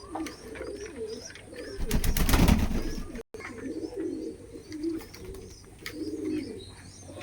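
Domestic pigeons cooing in repeated low phrases, with small birds chirping high over them. A loud rush of noise cuts in about two seconds in and lasts about a second.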